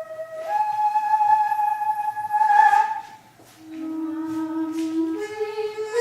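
Daegeum, the large Korean bamboo transverse flute, playing slow, long-held notes. A high note is held for about two and a half seconds and swells near its end; after a short break for breath, a lower note enters and steps upward in pitch.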